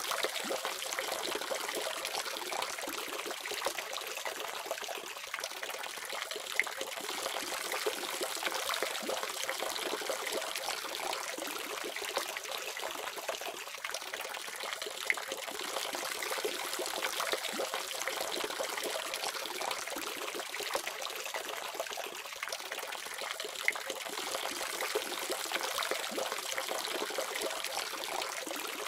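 Water running steadily from a faucet, with fine splashing and a few small drips or ticks in the flow.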